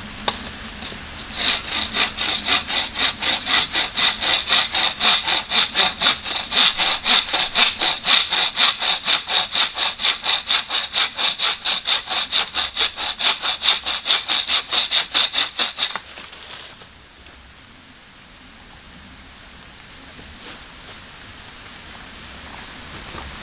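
Hand saw cutting through wood in quick, even back-and-forth strokes, about four a second; the sawing stops about sixteen seconds in.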